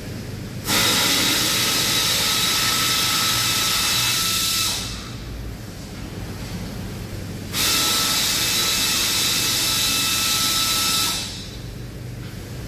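Compressed-air tool hissing in two bursts of about four seconds each, with a few faint steady tones over the hiss.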